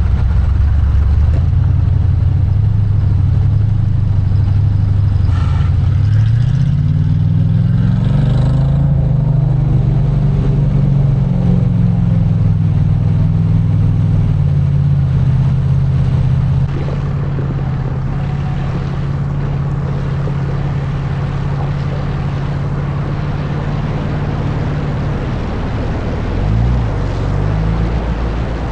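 Truck engine running under load as the truck drives off, its pitch rising between about six and ten seconds in, then holding steady.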